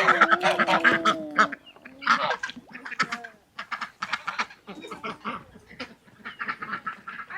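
Flock of domestic ducks quacking rapidly, with geese honking. It opens with one long drawn-out call lasting about a second and a half.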